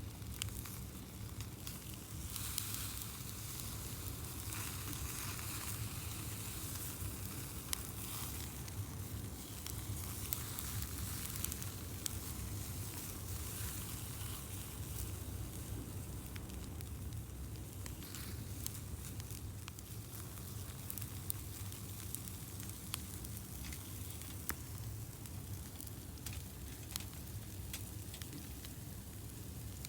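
Meat sizzling as it grills over a wood campfire: a steady hiss with frequent sharp pops and crackles from fat dripping into the fire.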